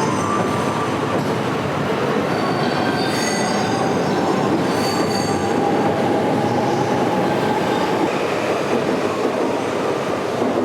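A train running close by, its steady rumble laced with thin, high wheel squeals that are strongest about three and five seconds in.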